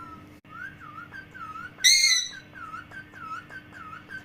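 Pet parrot whistling a run of short dipping notes, about two to three a second, with one louder shrill call about two seconds in.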